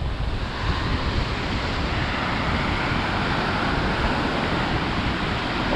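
Atlantic Ocean surf washing steadily around the camera, swelling a little about two seconds in, with a low wind rumble on the microphone.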